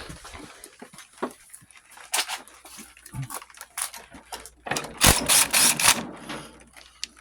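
Hand tools clinking and knocking on an old lawn tractor's steering linkage while the tie rod ends are being worked off. A louder, rapid run of metal strokes comes about five seconds in.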